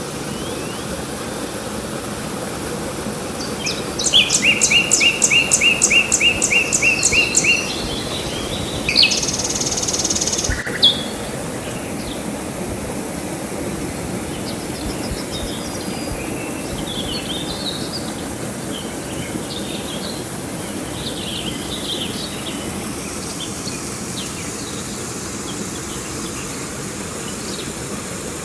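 Steady rush of river water, with a songbird singing a fast run of repeated notes, about four a second, starting about four seconds in and lasting some three and a half seconds. Fainter scattered bird chirps follow over the rushing water.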